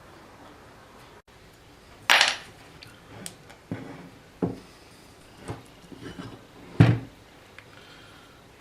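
Metal parts and tools clanking and knocking as they are handled and set down on a workbench: about seven separate knocks, the loudest about two seconds in and near the end.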